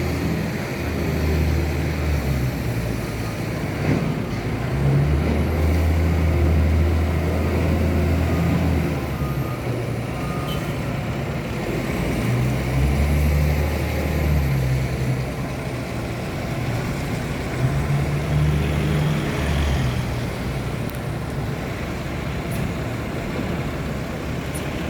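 Heavy truck engine running, its low drone swelling and easing every few seconds as the revs change.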